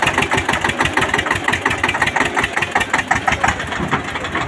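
Eicher tractor's diesel engine running with a rapid, even chugging.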